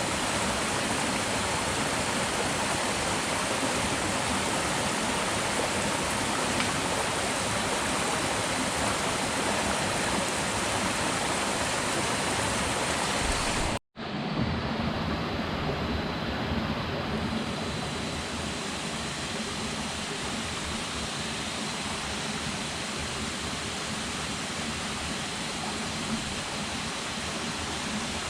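Steady rushing water noise. It cuts out for an instant about halfway through, then comes back slightly quieter and duller.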